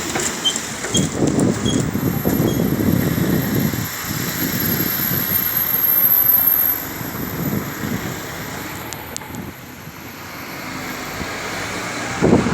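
Vehicles passing at a railway level crossing: a continuous rumble that builds to its loudest about six seconds in, then drops away sharply.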